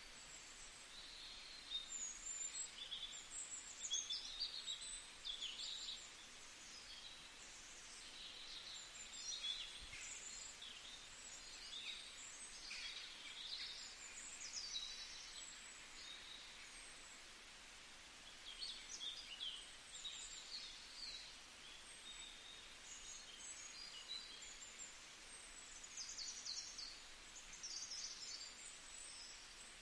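Birds chirping in short, repeated bursts over a faint steady hiss.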